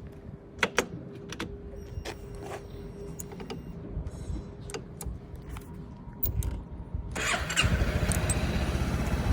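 Honda Forza X (MF10) 250 cc scooter being started: several clicks and a faint steady hum over the first few seconds, then about seven seconds in the engine catches and settles into a steady idle.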